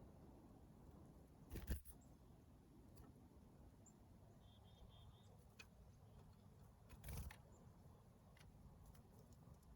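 Near silence with a faint low rumble, two soft bumps, and a faint bird call of three short high notes about halfway through.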